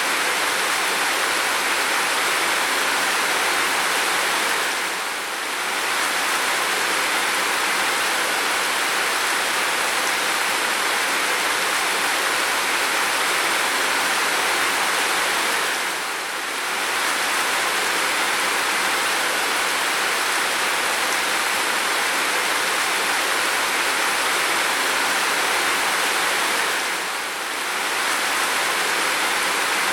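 Steady pounding rain, an even hiss with no separate drops standing out. It dips briefly in level three times, about eleven seconds apart.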